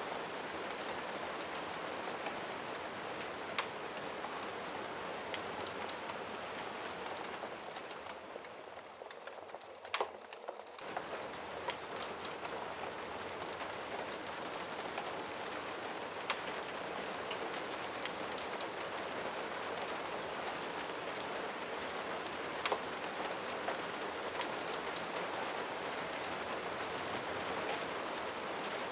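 Steady rain falling, with scattered short sharp clicks. It thins and drops away for a few seconds about a third of the way in, then comes back abruptly.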